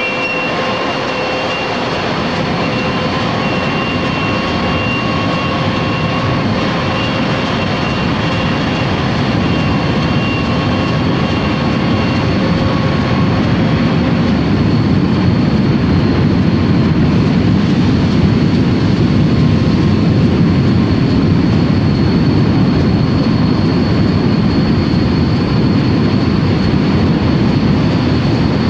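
Panavia Tornado GR1's twin RB199 turbofan engines running: a steady, loud jet rush with a thin high whine, swelling slightly about halfway through as some fainter tones fade out.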